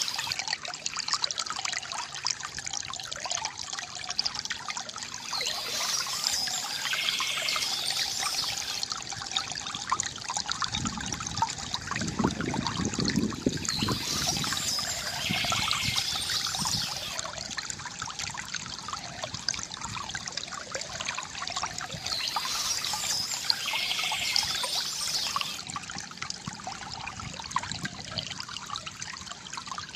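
Water from a bamboo fountain trickling and gurgling steadily, with a deeper gurgling surge about halfway through. Short bursts of bird chirping recur about every eight seconds.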